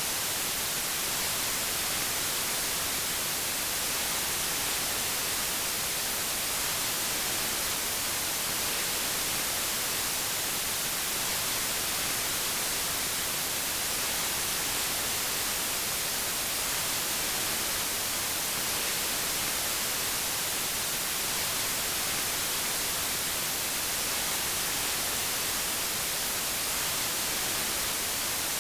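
Steady synthetic white noise: an even, unchanging hiss, brightest in the highs.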